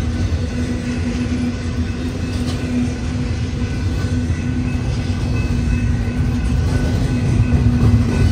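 Double-stack intermodal freight train rolling past close by: a steady rumble of loaded container well cars on the rails.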